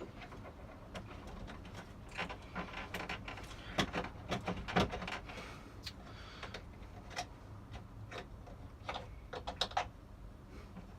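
Irregular clicks, taps and brief scrapes of small hardware being handled and fitted by hand, with a busy cluster of knocks a few seconds in and another near the end.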